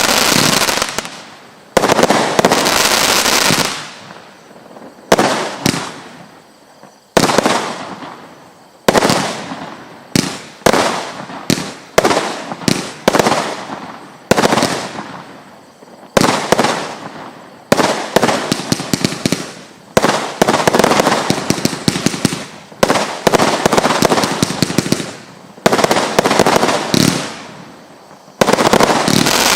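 Hurricane Force consumer firework going off: a long run of sharp bursts, some single and some in quick strings, each fading away over a second or two.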